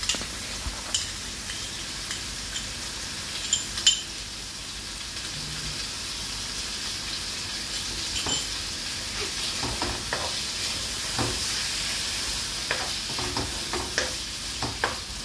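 Mutton tripe curry sizzling in the pan with a steady hiss as yogurt is added. A few sharp spatula taps come in the first seconds, the loudest about four seconds in, then from about eight seconds on the spatula stirs and scrapes through the meat with many small clicks.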